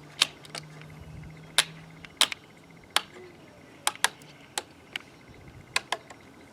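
A bar clamp being tightened onto wooden framing boards: about a dozen sharp, separate clicks at an uneven pace.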